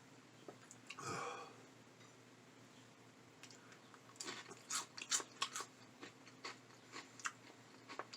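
Close-up chewing and crunching of a burger topped with Flamin' Hot Cheetos. There is a brief louder noise about a second in, then a run of crisp crunches between about four and six seconds.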